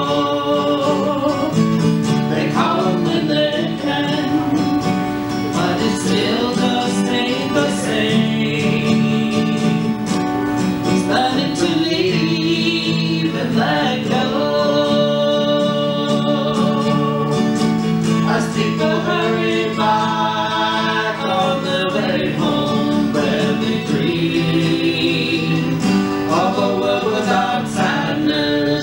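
A song sung live with guitar accompaniment: a singing voice over steady strummed or picked chords.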